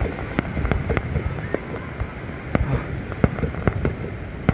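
Fireworks display: an irregular run of sharp pops and cracks, several a second, over a low rumbling background.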